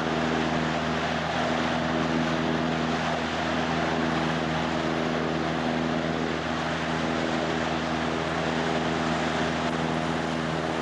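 Motorboat engine running at a steady speed, with wind and water rush over it.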